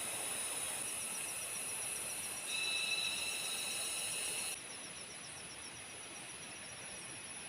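Forest insect chorus: several insects hold steady high-pitched calls while one, like a cricket, pulses rapidly. The sound shifts abruptly a few times and is a little quieter after about four and a half seconds.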